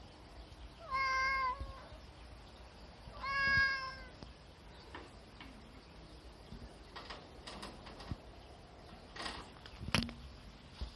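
Domestic cat meowing twice, two drawn-out meows about two seconds apart, followed by faint rustling and a sharp click near the end.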